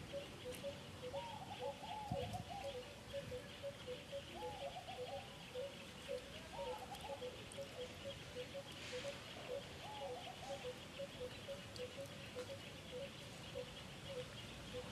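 Outdoor wildlife ambience: a bird repeats short, low notes at a steady rate of about three a second. A few brief wavering calls come in now and then, over a constant high buzzing trill.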